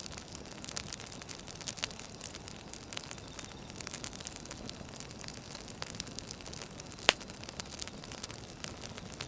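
Firewood burning: a steady hiss with frequent small crackles and one sharper pop about seven seconds in.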